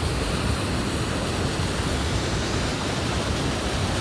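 Steady rushing noise of Niagara Falls' water pouring down.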